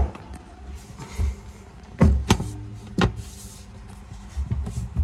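A running commercial beer fridge humming steadily, with its compressor and fans going, while a series of sharp knocks and clunks sound over it as the unit is handled.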